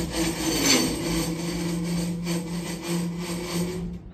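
Diesel train running along the rails: a steady rasping of steel wheels on rail over a low, even engine hum. It cuts off abruptly near the end.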